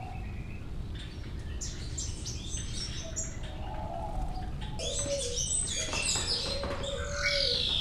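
Many small birds chirping and twittering together, busier in the second half, with a lower cooing from doves underneath.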